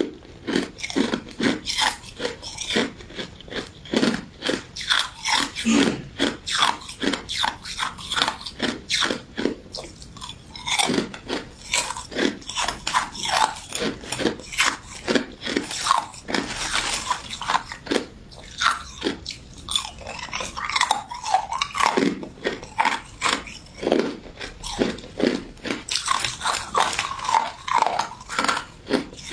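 A person biting and chewing a crunchy golden crystal ice dessert with citrus jelly: crisp crunches about two or three a second, one mouthful after another.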